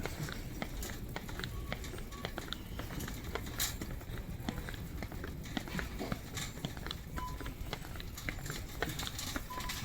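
Shopping cart rolling through the store, its wheels and frame rattling with a stream of small clicks and knocks. Short beeps sound about seven seconds in and again near the end.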